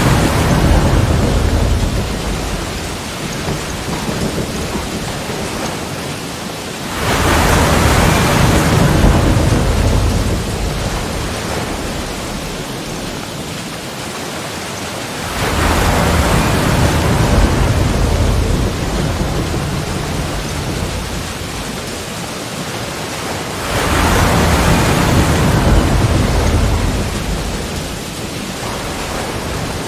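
Ocean waves breaking on the shore four times, about every eight seconds. Each is a loud rush of surf that fades into a steady hiss of foaming water.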